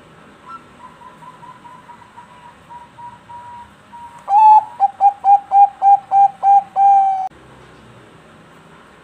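Zebra dove (Bangkok perkutut) singing: a run of faint quick notes, then about four seconds in a loud phrase of about ten clipped cooing notes, roughly four a second, ending on a longer held note.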